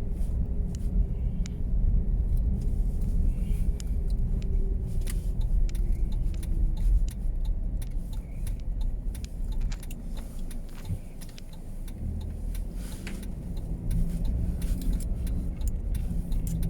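A car driving through a snowstorm: a steady low rumble of road and wind noise, with scattered light clicks and rattles.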